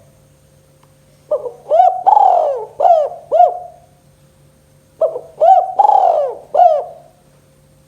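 Spotted dove (tekukur) cooing: two phrases of about five rolling coos each, a pause of a second or so between them.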